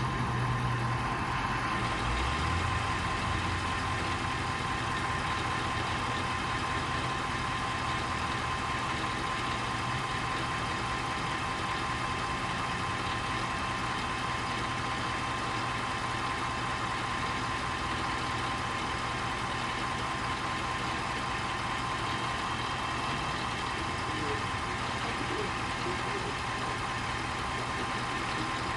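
A motor vehicle engine idling steadily, with a thin steady whine running alongside it.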